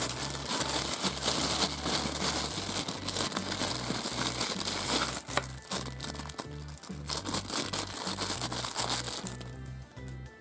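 Thin clear plastic bag crinkling loudly as it is handled and pulled open, with a brief pause midway, stopping about a second before the end. Background music with low bass notes plays underneath.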